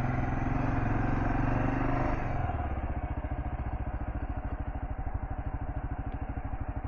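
Kawasaki KLR650's single-cylinder engine running on some throttle, then easing off about two seconds in to low revs with a steady, even pulse.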